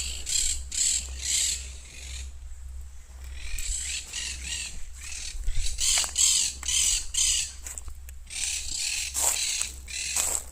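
Monk parakeets squawking in a flock: runs of harsh, rapidly repeated calls, with a pause about two seconds in and a short lull near the end.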